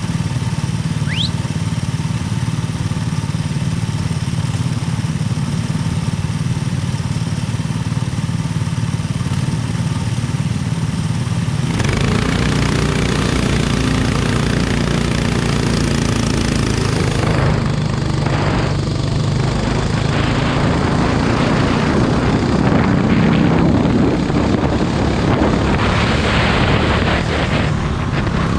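Go-kart engine running steadily at speed. About twelve seconds in, the sound turns rougher and noisier.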